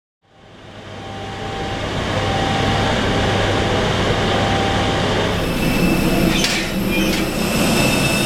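Airliner cabin ambience at the gate: a steady rush of air-conditioning noise with a low hum, fading in at the start. About two-thirds of the way through the hum gives way to a few high steady tones, and two short clatters follow.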